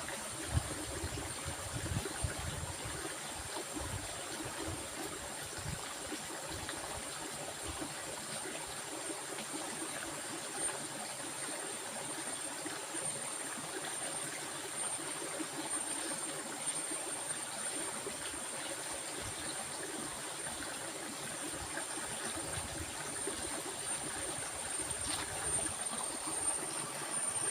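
Steady rush of flowing water, like a stream, with a constant high thin tone above it and a few low rumbles in the first seconds.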